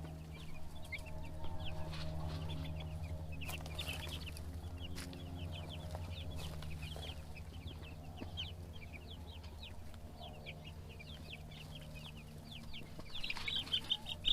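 A brood of Cornish Cross meat chicks about a week and a half old peeping, many short falling chirps overlapping, over a steady low hum. The peeping grows louder near the end.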